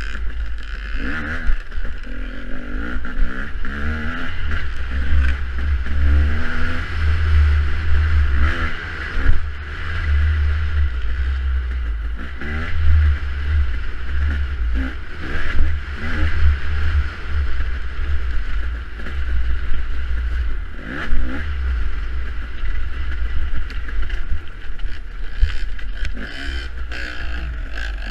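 Dirt bike engine revving up and down repeatedly while riding an off-road harescramble trail, under a heavy low rumble.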